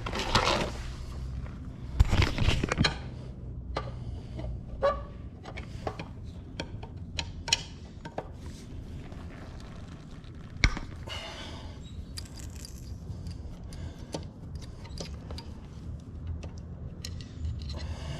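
Scattered metal clicks, scrapes and knocks of a large screwdriver working loose the drain screw on an outboard motor's lower unit, with a couple of sharper knocks about two seconds in and about ten seconds in.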